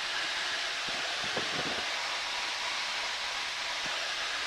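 Steady in-flight cockpit noise of a Cessna 152: engine and airflow heard as an even hiss.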